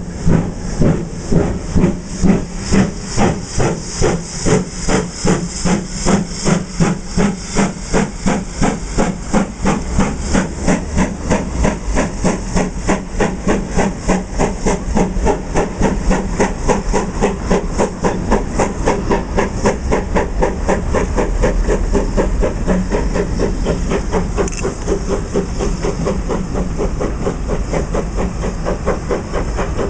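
Steam locomotive working away under power, its exhaust chuffs starting slow and quickening steadily until they blur into a continuous rush.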